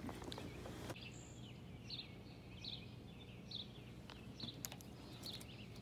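Faint outdoor bird calls: a short, slightly rising chirp repeated about every three-quarters of a second over low steady background noise.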